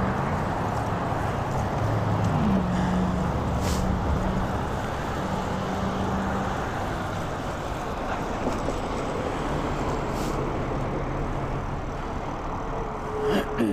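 A motor vehicle's engine hums steadily close by over a constant rumble of road noise. The engine tone fades after about seven seconds, and a sharp click with a short falling tone comes near the end.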